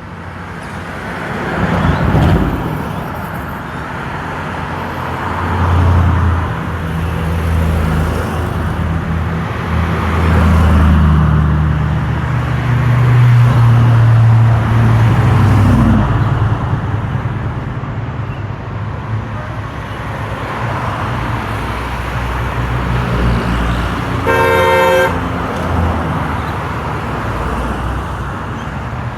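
Vintage and classic car engines running as a procession of cars passes by, the rumble swelling and fading with each car. Near the end, a car horn gives one toot of about a second.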